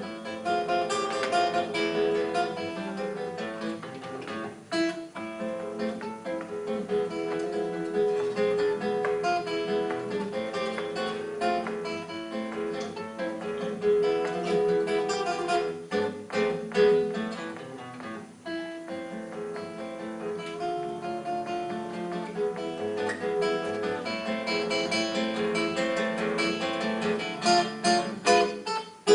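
Acoustic guitar music, fast plucked and strummed notes in a flamenco-like style.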